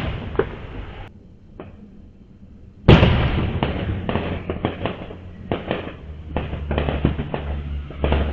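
Fireworks going off: a loud bang about three seconds in, then a rapid string of sharp crackling pops. A low steady hum joins underneath near the end.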